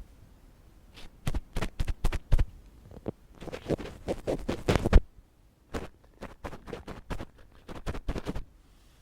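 Ear pick scratching and scraping close to the microphone in quick runs of scratchy clicks, pausing briefly about halfway through, then resuming.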